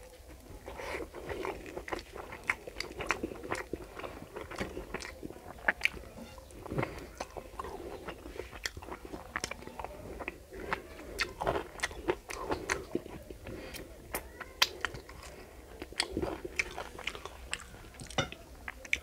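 Close-miked chewing of mouthfuls of rice and curry eaten by hand, with many sharp wet smacks and crunches.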